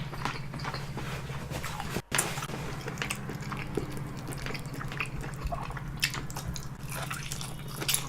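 Close-miked wet mouth and chewing sounds: many small smacks and clicks while eating, over a steady low hum. The sound drops out briefly about two seconds in.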